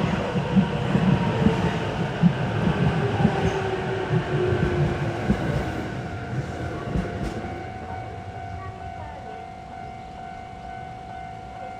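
Train rumbling and clattering past and moving away, the sound fading steadily over several seconds, with a steady tone left after about seven seconds.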